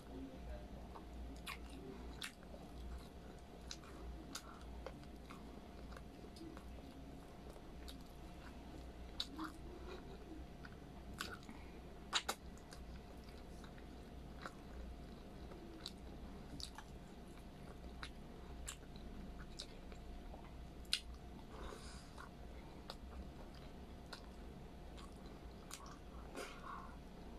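Close-up chewing and mouth sounds of a person eating pork humba (braised pork belly) and rice by hand, with scattered wet clicks and smacks, the sharpest about twelve seconds in. A faint steady hum sits underneath.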